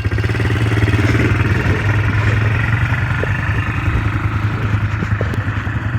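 ATV engine running steadily at low revs, near idle.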